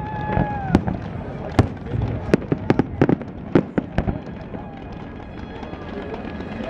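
Fireworks display: a rapid string of sharp cracks and bangs over a low rumble, thinning out after about four seconds.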